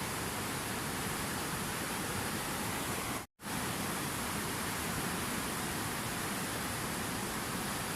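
Steady rushing water, an even hiss like a waterfall or fast stream. It cuts out completely for a split second about three seconds in, then resumes unchanged.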